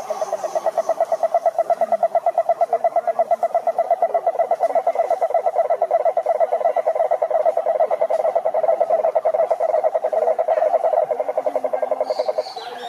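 A frog or toad giving one long, rapid, pulsed trill, which stops shortly before the end, with fainter calls of other frogs behind it.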